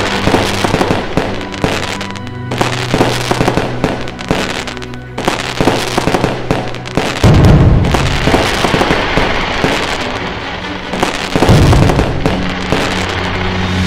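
Fireworks display: dense crackling, with two heavy booms about seven seconds in and again about eleven and a half seconds in, over music with steady bass notes.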